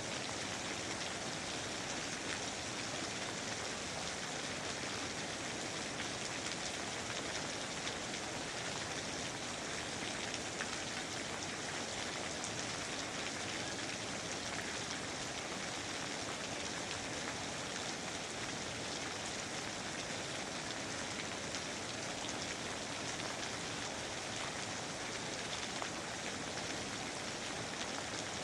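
Steady rain falling in a rainforest, an even hiss of rain with fine drop patter throughout.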